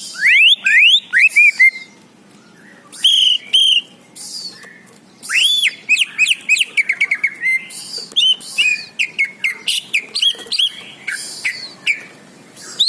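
A songbird singing in phrases of quick rising and falling whistles and chirps, broken by two short pauses in the first five seconds, then a long run of varied notes.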